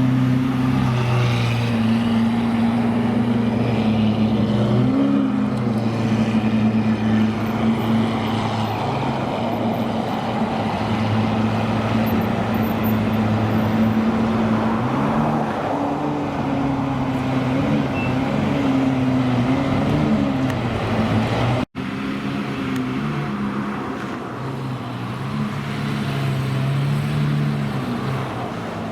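Supercar engines running near idle, a steady low drone that now and then rises and wavers in pitch. It drops out suddenly for an instant about two-thirds of the way through.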